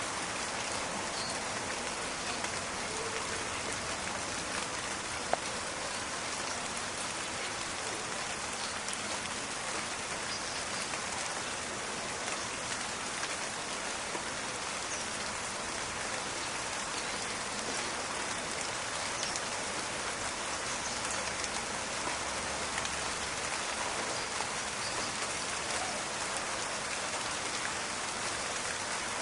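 Steady rain falling in a forest, an even hiss dense with small drop ticks, with one sharper click about five seconds in.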